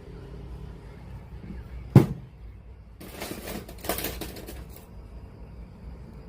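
Handling noise from a JVC PC-W100 radio-cassette player under repair: one sharp click about two seconds in, then a couple of seconds of clattering and rattling, over a faint steady hum.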